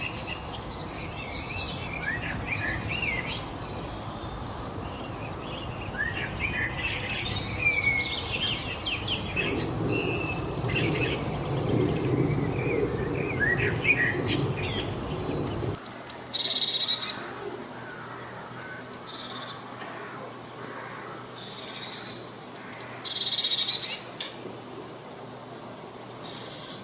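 Several songbirds chirping and singing over steady background noise. About two-thirds of the way through, the recording cuts abruptly to a quieter scene where one bird repeats a short, high whistled note and a few louder calls break in.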